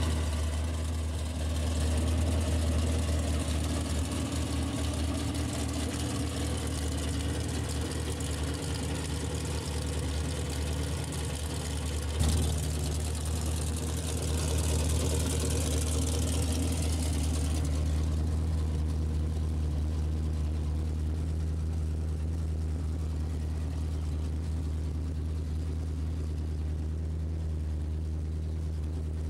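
A 1967 Camaro's 396 big-block V8 idling steadily, with a short knock about twelve seconds in.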